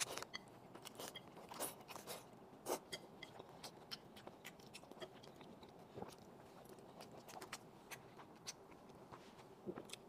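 Person chewing and eating soft food, spaghetti and a shrimp wonton: irregular soft wet mouth clicks and smacks.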